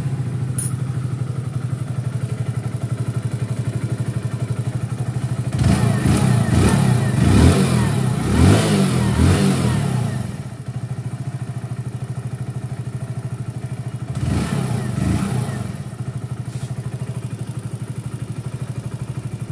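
Hero HF Deluxe BS6's single-cylinder air-cooled engine idling steadily. It is blipped up several times in quick succession about six seconds in, and once more around fourteen seconds, each time settling back to idle. The engine has a newly fitted self-start chain, chain guide and magneto cover gasket, and this run is to check whether the engine noise is cured.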